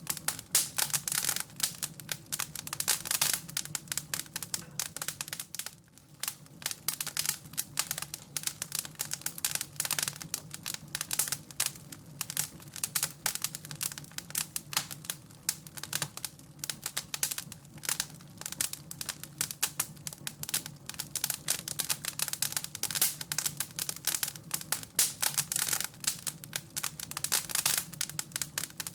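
Wood fire crackling and popping in a fireplace, a dense, irregular stream of small snaps, with a faint steady low hum beneath.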